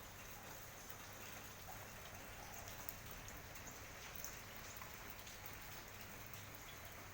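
Steady rain falling: a soft, even hiss with scattered drops ticking, over a faint low hum.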